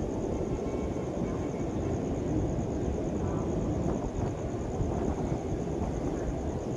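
Steady low rumble of a train running past.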